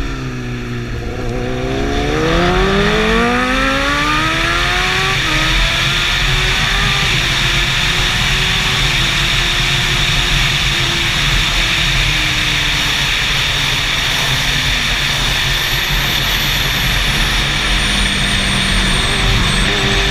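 Sport motorcycle engine at a track day: its pitch drops as it slows, then climbs steeply as it accelerates hard about a second in, and from about five seconds on it holds a steady, slowly wavering note at speed.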